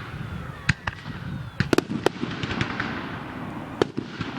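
Fireworks display: sharp bangs of shells bursting, a quick cluster of three about two seconds in and another near the end, over a continuous crackle.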